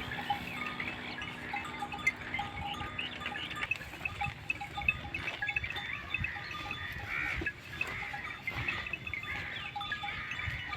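Farm livestock sounds with ringing bell-like tones and many short high chirps. A low steady hum runs through the first few seconds, then stops.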